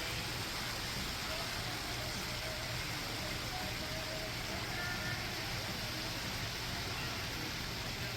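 Steady rushing background noise that does not change, with a few faint, brief pitched sounds now and then.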